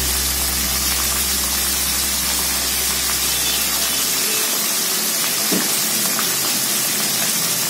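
Squid, shrimp and fish balls sizzling steadily in a hot wok.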